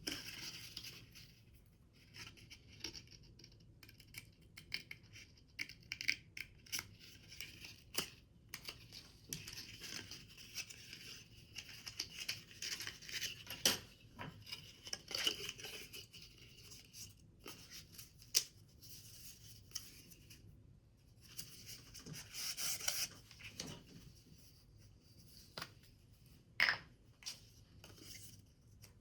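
Paper or card being cut with scissors and handled: a run of irregular snips and rustles, with a few sharper clicks.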